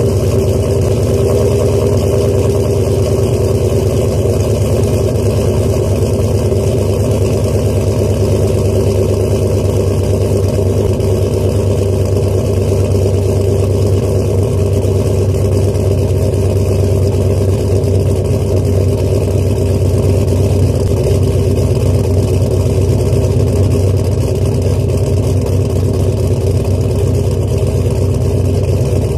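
2001 Pontiac Trans Am WS6's cammed LS1 V8, with an aftermarket camshaft, idling steadily through its quad exhaust tips after a cold start.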